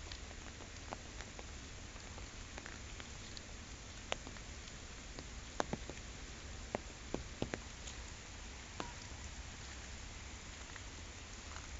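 Steady rain falling, with scattered sharp ticks of single drops, a cluster of them in the middle.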